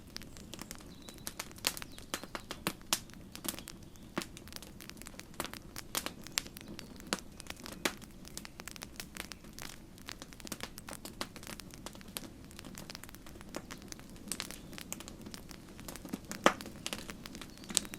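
Campfire crackling: wood popping and snapping in rapid, irregular clicks over a low, steady rush of the flames, with one louder pop near the end.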